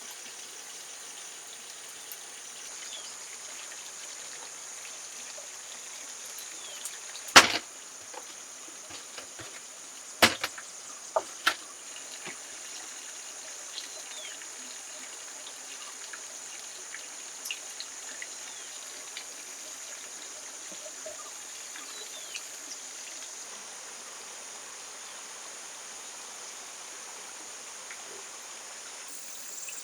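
Steady high-pitched buzz of forest insects, broken by a few sharp knocks: one loud knock about seven seconds in, then three more between about ten and twelve seconds.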